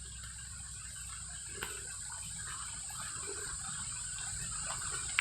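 Insects chirring: a steady, high-pitched outdoor chorus.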